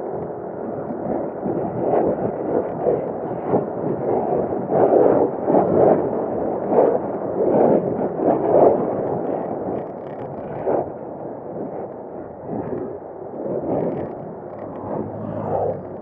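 Wind buffeting the microphone in uneven gusts while riding on a motorcycle, over the steady noise of the ride, loudest in the middle and easing off near the end.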